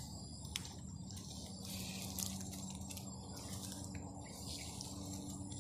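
Insects trilling steadily in high, thin tones, with intermittent faint rustling crackles and a couple of sharp clicks, the loudest about two seconds in.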